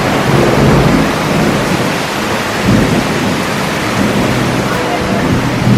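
Heavy monsoon rain pouring down steadily, with thunder rumbling low underneath.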